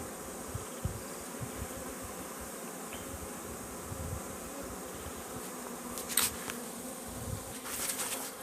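Swarm of honeybees buzzing steadily, with a few short knocks and scrapes near the end.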